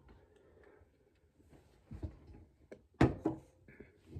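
A few light clicks and knocks of objects being handled, with one sharper knock about three seconds in.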